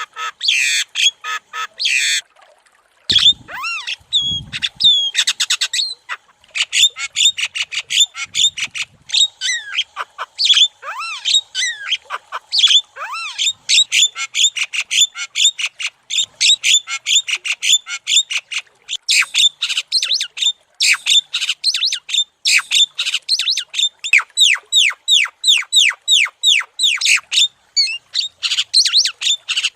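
Javan myna (jalak kebo) singing energetically: a fast, nearly unbroken run of sharp chattering and squawking notes, several a second, with a couple of brief pauses. A few low thumps come about three to four seconds in.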